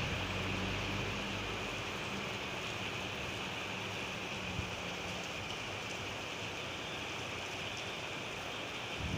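Steady rain falling, an even hiss. In the first half a faint low hum runs under it, then fades out.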